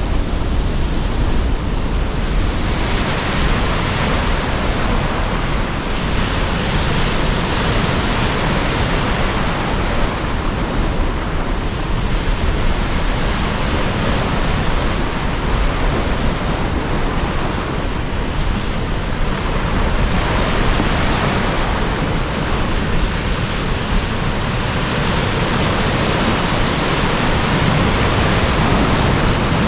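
Sea surf breaking under strong wind: a steady, loud rush of noise that swells and eases every few seconds as waves come in.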